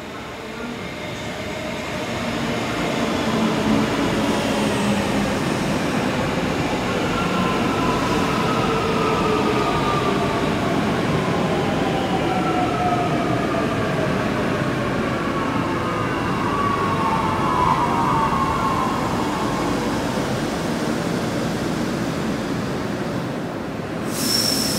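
Queensland Rail train running on the track, loud and steady, with several slowly falling whines through the middle. A sudden short hiss comes near the end.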